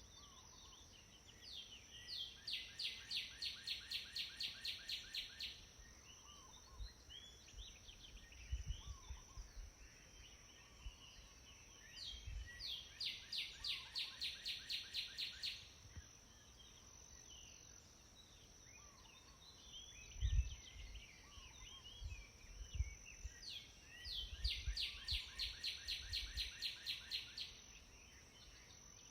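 A songbird singing a fast trill of about four notes a second, a few seconds long, three times about ten seconds apart, with softer chirps from other birds between and a steady high insect-like whine throughout. A few low thumps fall between the trills.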